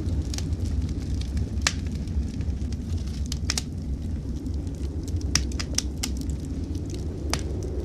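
Wood fire crackling in a fireplace, with a scattering of sharp pops, over a steady low rumble of blizzard wind.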